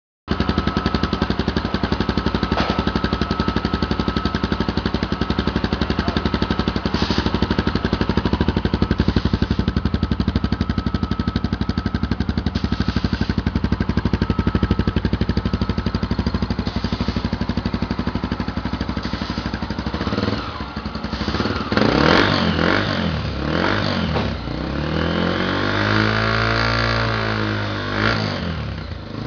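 Honda CB300 motorcycle's single-cylinder engine idling steadily through an aftermarket sport exhaust tip, then revved several times in the last third, its note rising and falling with each blip of the throttle.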